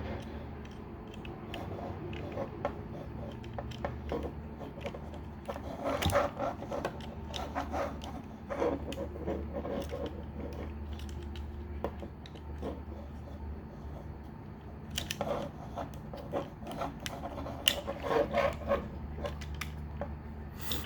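Plastic parts of a Transformers action figure being handled and posed: scattered small clicks, rubs and scrapes, in several short clusters, over a steady low hum.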